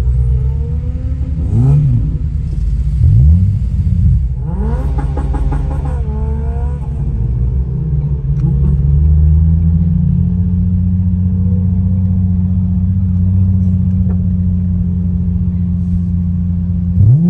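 Car engine accelerating, its pitch climbing and dropping back several times as it is taken through the gears, then settling into a steady drone at an even speed, with one more rise near the end.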